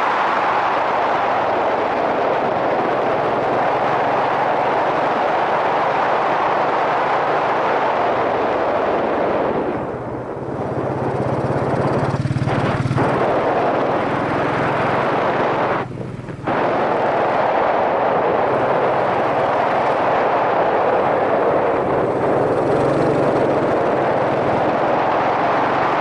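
Yamaha SRX400 single-cylinder motorcycle running on the move, heard under heavy wind rush over a helmet-mounted microphone. The sound drops briefly twice, about ten seconds in and again around sixteen seconds.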